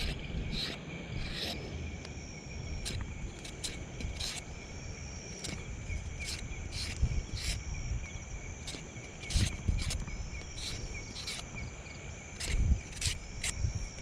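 Insects chirring outdoors: one steady high trill throughout and a higher trill that comes and goes every few seconds. Frequent sharp clicks and low rumbling run underneath.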